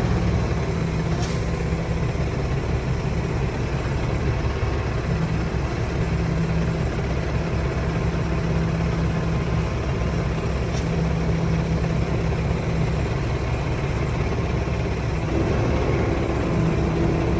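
Semi-truck's diesel engine running steadily at low speed while the rig is maneuvered in reverse, a continuous low drone. About 15 seconds in, a steadier, higher hum joins it.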